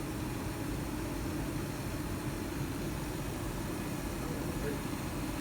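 Carrier gas furnace's draft inducer motor running with a steady, unbroken hum over a broad hiss: the odd noise that the owner puts down to the inducer motor.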